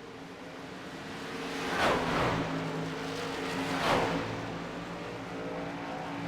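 Race truck engines running at speed over a steady drone of engines. Two trucks pass close by, about two and four seconds in, each dropping in pitch as it goes past.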